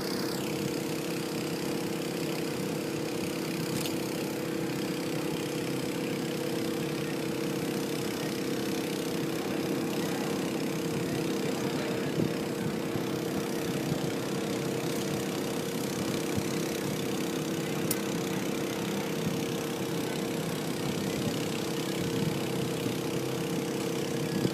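An engine idling steadily, a constant two-note hum over an even rushing noise.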